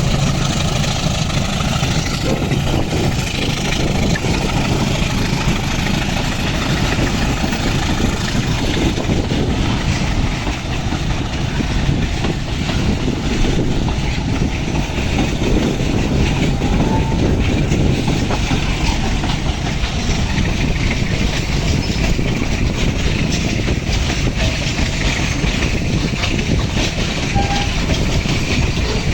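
Loaded ore freight train rolling past, a steady heavy rumble with the wagon wheels clattering on the rails.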